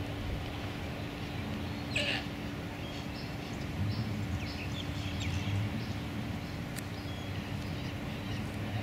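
Birds calling faintly: scattered short chirps and one short harsh call about two seconds in, over a steady low hum.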